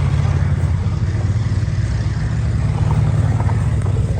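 Antique tractor engine running steadily as the tractor drives past, a constant low engine note.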